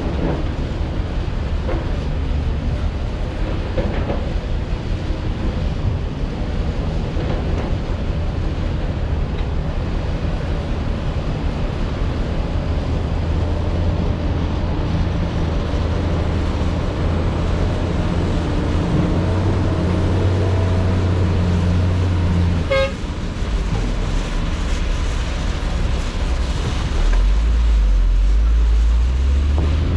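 Diesel engines of heavy earthmoving equipment (excavator and dump trucks) running steadily, their engine note rising and falling as they work. A brief high-pitched tone sounds about two-thirds of the way through.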